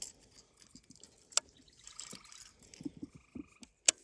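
Frogs calling from the lake's edge, with two sharp clicks, about a second and a half in and near the end, standing out as the loudest sounds.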